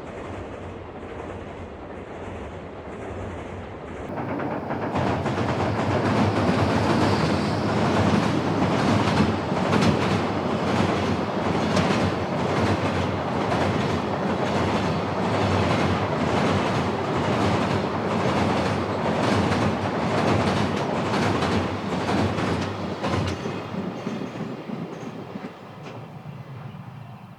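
Freight train passing close by, its wheels clattering over the rail joints in a steady repeating rhythm. It is quieter for the first few seconds, gets much louder about four seconds in as the train comes alongside, and fades near the end.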